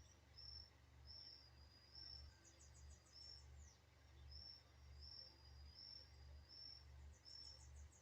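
Faint outdoor ambience: a short high chirp repeats about every two-thirds of a second. A brief fast high trill comes about two seconds in and again near the end, all over a low steady hum.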